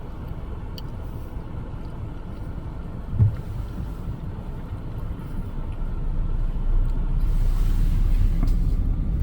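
Low, steady vehicle engine rumble that grows louder about two-thirds of the way through, with a single dull thump about three seconds in.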